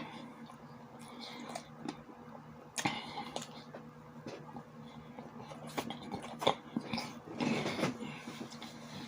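Close-miked eating sounds: chewing and mouth smacking on sausages with sauerkraut, a string of irregular wet clicks and short noisy smears, with a louder noisy stretch about seven and a half seconds in. A steady low hum runs underneath.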